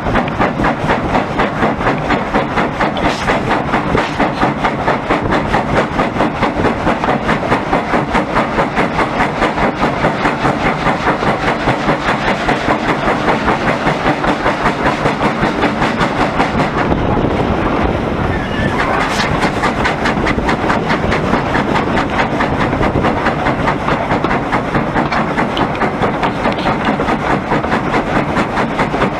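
Steam-hauled heritage train running steadily, with a loud, even beat of about four a second.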